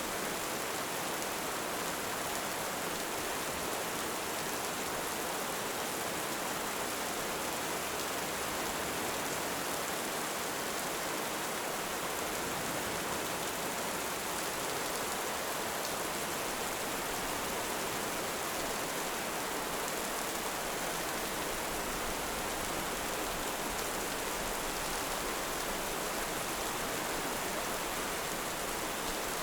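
Heavy rain falling steadily, an even hiss with no breaks or swells.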